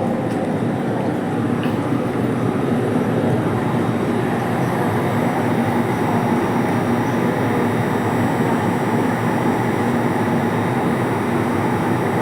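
Steady running noise heard inside a JR Kyushu 787 series electric train car: an even rumble from the wheels on the rails and the running gear, with a faint steady hum.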